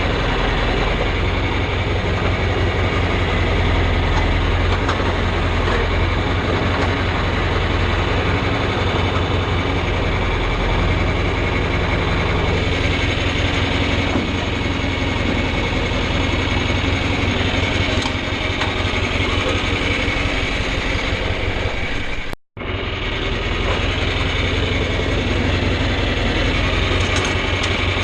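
Farm tractor engine running steadily under load. The sound cuts out for an instant about three-quarters of the way through, then resumes the same.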